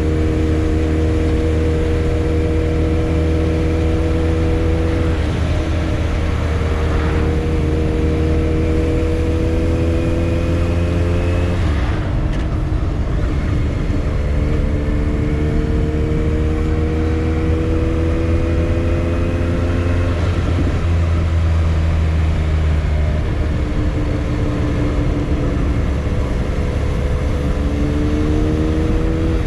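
Motorcycle engine running under way, its pitch creeping slowly up and dropping abruptly four times before climbing again, over heavy wind rumble on the microphone.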